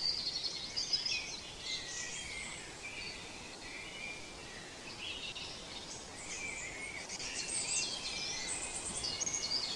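Several small birds chirping and singing together: short, high calls overlapping one another, busiest in the second half.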